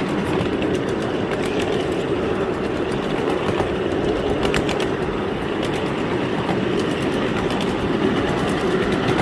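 A train rolling along rails: a steady rumble with scattered clicks and clatter.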